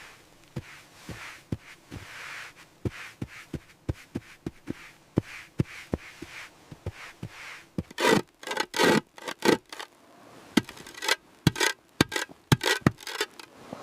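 Rocks being worked into a dry-stone wall: a run of light, regular taps, about two a second, then louder scraping and grinding of stone on stone from about eight seconds in.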